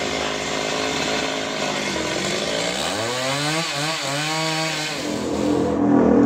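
Engine-driven sawmill blade cutting through a trembesi log, with a steady motor note under the cutting noise. Midway the engine's pitch dips and wavers for a couple of seconds as it is loaded. Near the end the high cutting hiss drops away and a lower hum gets louder.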